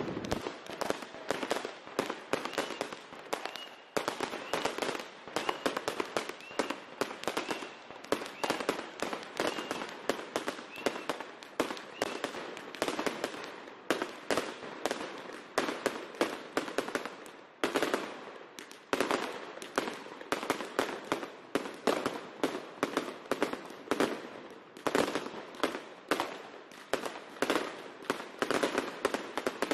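New Year's Eve fireworks going off in a dense, continuous barrage: rockets, aerial bursts and firecrackers, many sharp bangs a second without a break.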